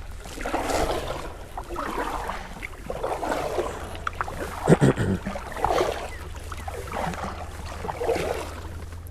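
Canoe paddle strokes, the blade swishing and splashing through the water in a steady rhythm of about one stroke every second and a quarter. A louder thump comes about halfway through.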